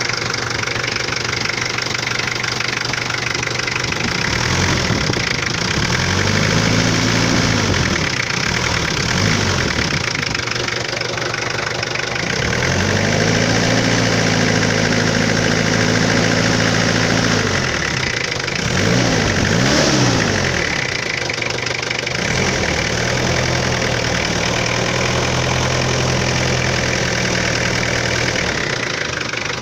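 Nissan Big M pickup's TD25 diesel engine idling and being revved repeatedly. There are a couple of short revs that rise and fall, then revs held up for several seconds, two quick blips, and another long held rev before it drops back to idle.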